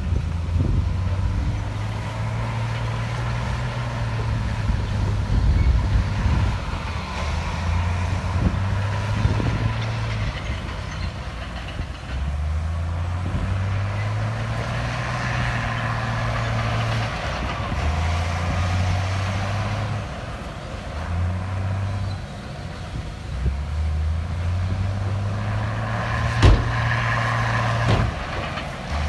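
Heavy diesel engine of earthmoving machinery running, its low drone stepping up and down in pitch every few seconds. A single sharp knock near the end.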